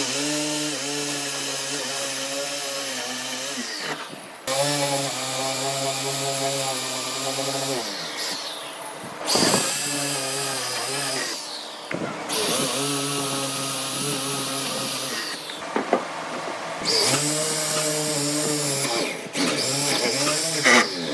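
Power tool motor running in several separate stretches that start and stop abruptly, its pitch sagging at times as if under load while working wood.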